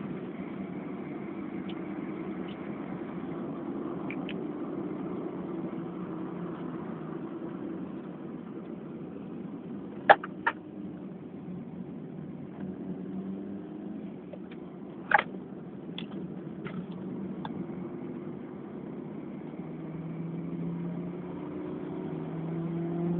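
Car engine running steadily at speed, heard from inside the cabin, with two sharp knocks about ten and fifteen seconds in. The engine note grows louder near the end.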